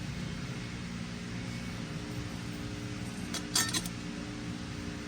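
A few light metallic clinks about three and a half seconds in, as a snap ring and clutch pack are handled in a transmission clutch drum, over a steady hum.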